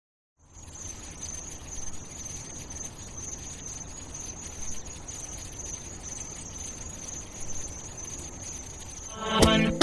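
A steady high-pitched trill, cricket-like, over a low hiss, starting a moment in; music with sharp beats comes in near the end.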